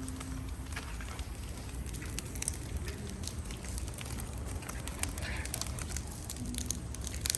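Bonfire crackling, with scattered sharp pops over a steady low rumble.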